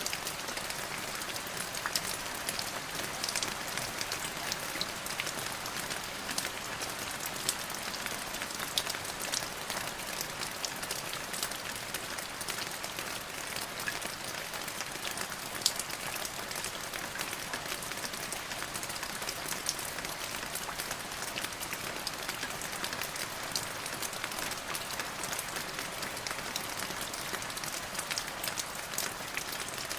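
Steady rain falling, with a dense hiss and many distinct drops pattering throughout.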